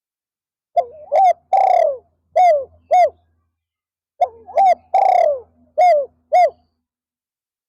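Spotted dove cooing: two song phrases about three seconds apart. Each phrase is a couple of short coos, one long drawn-out coo falling in pitch, and two short closing coos.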